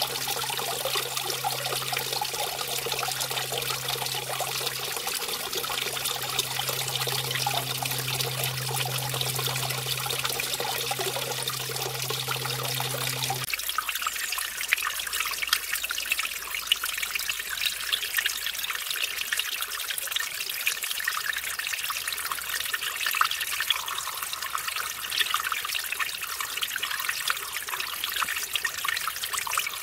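Small mountain stream trickling and splashing over a small waterfall, a steady rush of water. A little past halfway the deeper part of the sound drops away suddenly, leaving a thinner, higher splashing.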